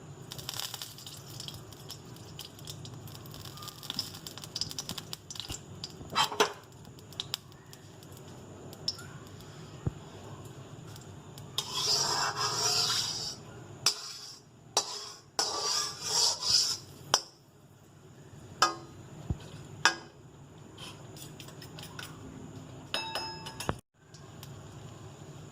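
Kitchen utensils clinking, knocking and scraping against dishes and bowls during food preparation, over a low steady hum. Scattered sharp clicks run throughout, with two longer stretches of scraping or stirring about halfway through.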